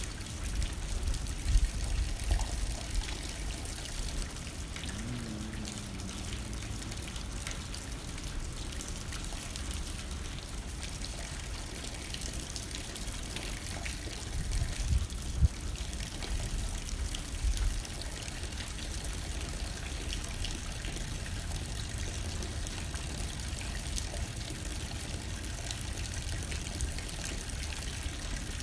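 Steady rain hitting a window, with water trickling and pouring, under low gusts of wind that swell near the start and again about fifteen seconds in.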